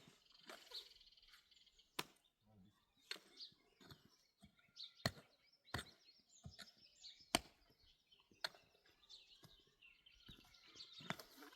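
Sharp single knocks, about eight of them spread unevenly over ten seconds, like a hand tool striking wood or stone, with faint bird chirps between.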